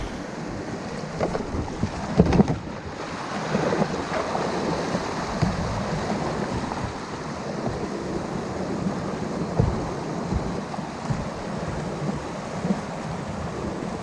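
River water rushing and splashing around a kayak on a flowing river, with wind buffeting the microphone. A couple of louder knocks or splashes come about two seconds in.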